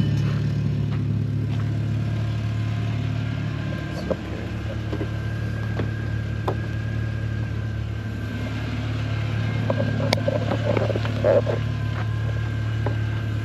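Car engine idling steadily, with a few sharp clicks and some rustling and knocking of handling noise in the second half.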